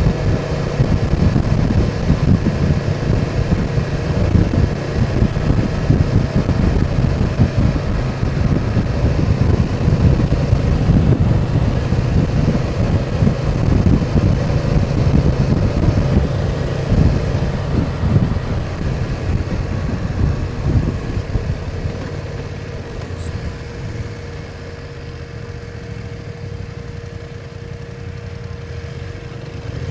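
BMW R1200 boxer-twin motorcycle being ridden along a mountain road, the engine running under steady wind rumble buffeting the helmet-cam microphone. The sound gets quieter about two-thirds of the way through as the bike eases off.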